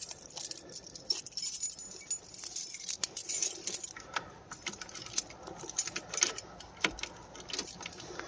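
A bunch of keys jangling and clinking, in a string of short metallic clicks.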